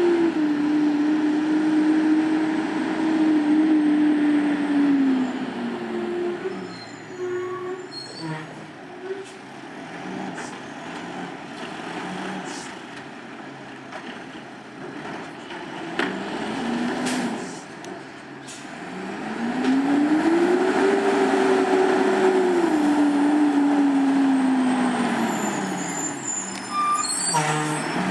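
Autocar Pendpac garbage truck's diesel engine floored in gear: a loud, steady high drone for about five seconds that then falls away. After a quieter stretch it climbs again, holds, and drops off, with sharp clicks near the end. Revving hard in gear under load gives it a strained sound, as if the truck wants to die.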